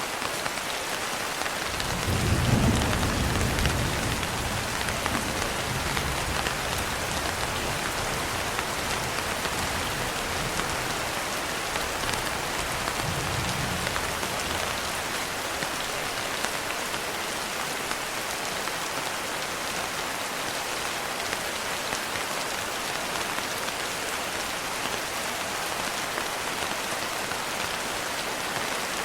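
Steady rain with thunder rumbling low, loudest about two seconds in and fading over several seconds, then a fainter second rumble near the middle.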